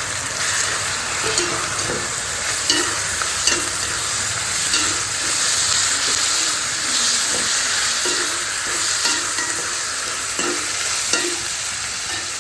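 Curry leaves, green chillies and onion sautéing in hot oil: a steady sizzle, with a stirring spoon knocking against the pan every second or so.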